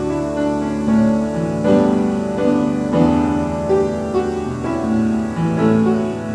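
Chapel piano played slowly, new chords struck about once a second and left to ring.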